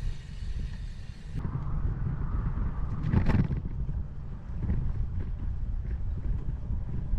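Wind buffeting the microphone of a bike-mounted 360 camera while riding: a steady low rumble, with a brief louder rush about three seconds in.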